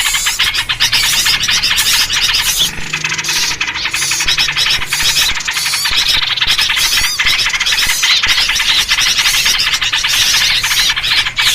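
Dense, unbroken chattering of small birds, a noisy bird-lure recording built around yellow-vented bulbul (trucuk) calls.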